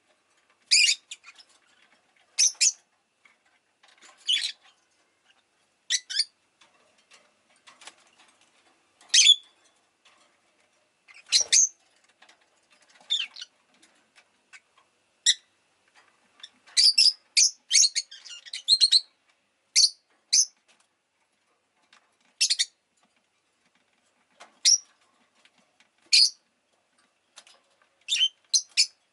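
Rosy-faced lovebird giving short, sharp, high chirps every second or two, with a quick run of chirps near the middle.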